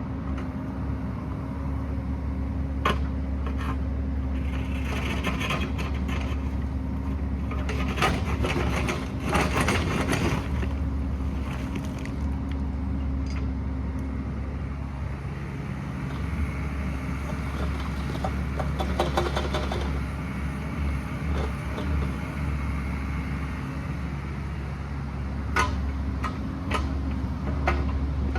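Excavator's diesel engine running steadily; its note shifts lower about halfway through. Scrapes and clanks, typical of the bucket working rock, come in bouts, loudest about a third of the way in.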